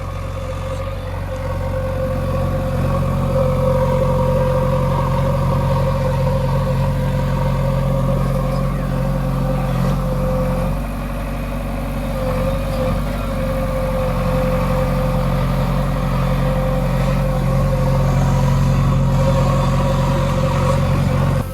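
JCB 3DX backhoe loader's diesel engine running steadily while working, with a steady whine above the engine note. The sound dips a little about halfway through and picks up again.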